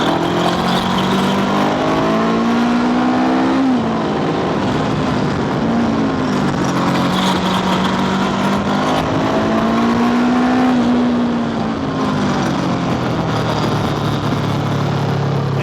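Honda scooter engine running while riding, its pitch easing off about four seconds in and rising again midway as the throttle changes, with wind rushing over the microphone.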